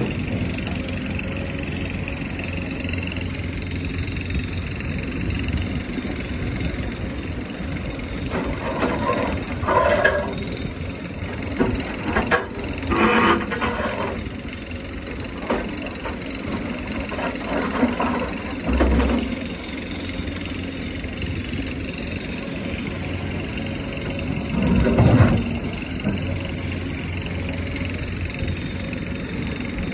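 Hydraulic excavator's diesel engine running steadily, with several short bursts of the bucket scraping and knocking on rock, the loudest near the end.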